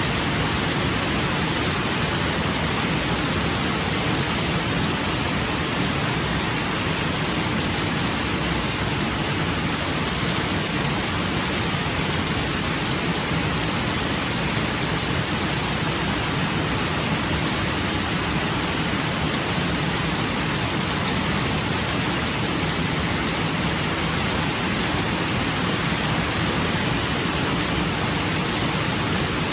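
Rain falling steadily, an even hiss with no breaks or thunderclaps.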